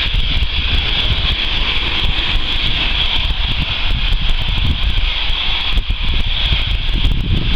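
Wind rumbling on the microphone, with a steady high hiss.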